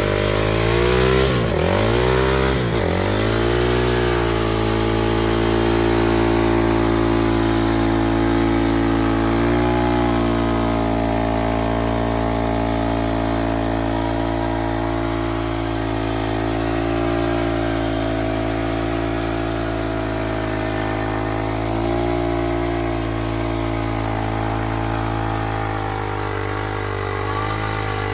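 Dirt bike engine revved up and down a few times in quick succession, then held at steady high revs for a long stretch, as in a burnout spinning the duct-taped rear tire.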